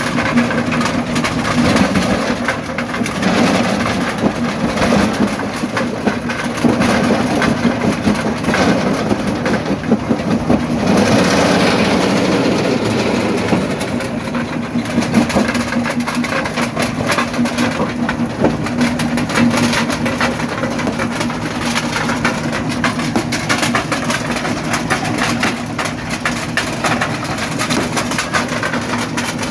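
Primary jaw crusher running, with a steady engine drone under continuous grinding and cracking of rock in the jaws. It gets louder for a few seconds about midway.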